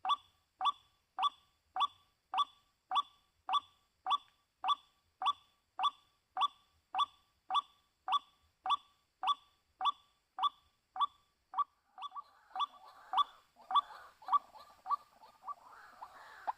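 White-breasted waterhen (ruak-ruak) calling a short, slightly falling 'kwak' note over and over at an even pace, about one every 0.6 seconds. About twelve seconds in, rustling joins and the calls become less regular.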